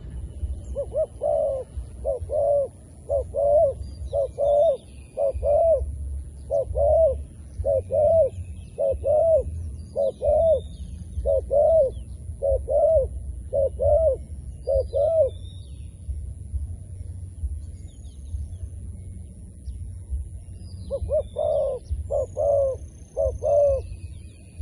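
Zebra dove cooing: a long run of short, arched notes in quick pairs, pausing about 15 seconds in and starting again near the end. Faint high chirps of small birds sound in the background.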